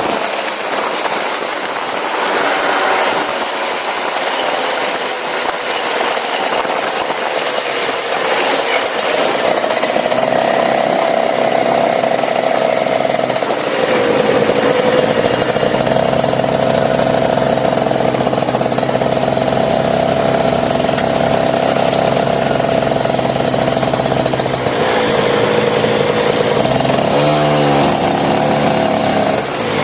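Go-kart engine running hard at a steady high pitch, dipping briefly twice and picking up again as the kart slows and accelerates, then wavering and dropping near the end.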